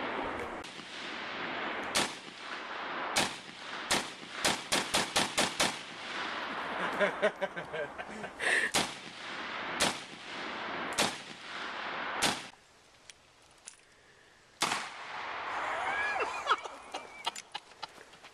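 Gunfire: single shots every second or so, with a quick string of about seven shots in rapid succession a few seconds in, then fewer shots later.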